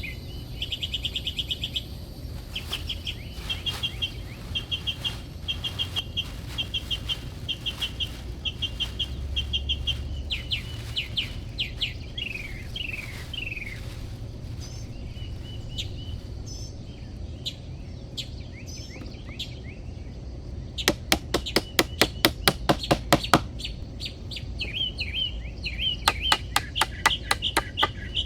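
Small birds chirping in repeated short trilled phrases, with some quick falling notes. About twenty seconds in, and again near the end, comes a fast run of sharp taps, several a second.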